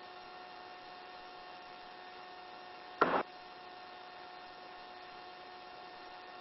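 Faint steady hum with a few thin steady tones, the background of a helicopter flight as heard through the cabin intercom, with one short burst of noise about three seconds in.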